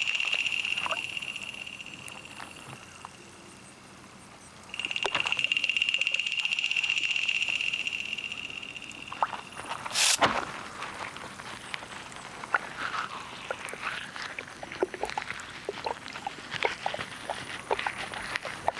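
A steady high trill that fades out, pauses and returns, then a single sharp snap about ten seconds in, followed by a run of small irregular clicks and crackles, the sucking and chewing noises of predatory insect larvae feeding underwater.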